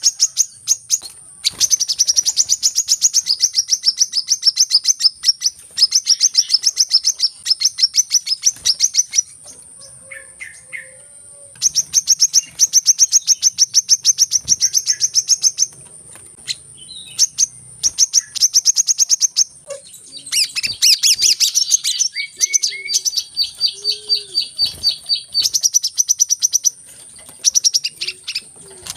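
Sunbirds (called kolibri in Indonesia) giving rapid, high chirping trills in long runs of several seconds, broken by short pauses. A faint steady high-pitched whine runs underneath.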